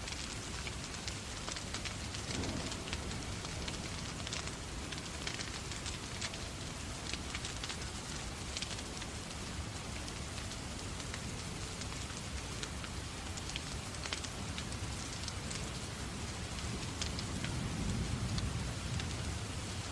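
Steady rain with a crackling wood fire, many small sharp crackles over the even hiss of the rain. A low rumble swells up near the end.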